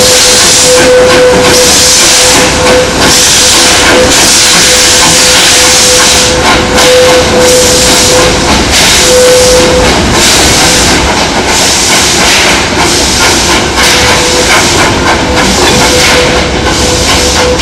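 Steam locomotive working: loud steam hiss pulsing in regular exhaust beats that come closer together in the second half. Under it runs a steady single tone, which breaks off about ten seconds in and returns near the end.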